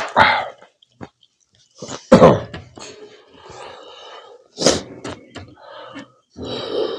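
Close-miked eating sounds of someone chewing pork curry and rice: wet chewing and mouth smacks coming in irregular bursts, the loudest about two seconds in.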